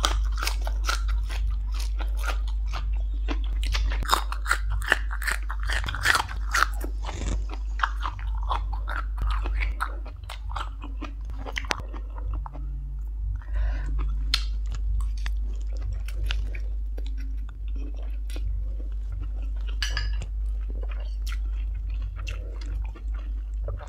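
Close-miked chewing and crunching of crisp vegetables and stir-fried instant noodles, with many sharp crunches in quick succession over the first several seconds, then softer, sparser chewing.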